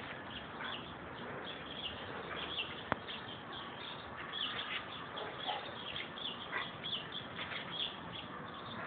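Small birds chirping over and over, short downward-sliding chirps, with one sharp click about three seconds in.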